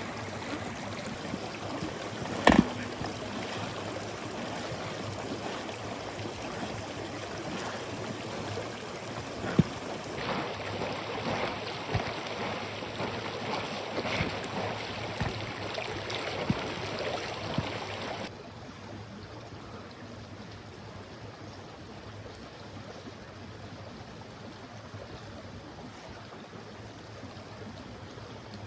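A mountain river running steadily, with a few sharp knocks on top, two of them standing out, one near the start and one about a third of the way in. The water turns abruptly quieter and smoother about two-thirds through.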